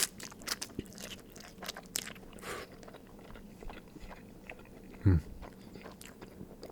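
A person chewing a mouthful of ramen noodles, close up: a scatter of small wet clicks and mouth smacks, with a short low hum about five seconds in.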